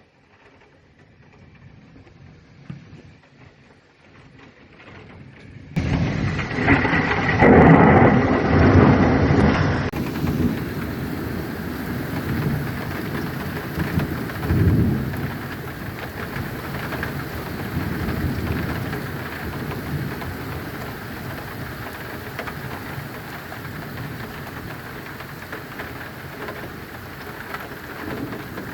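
Thunder rumbling loudly, then steady heavy rain hissing, with a further roll of thunder partway through. The first few seconds are faint, and the sound jumps up suddenly about six seconds in.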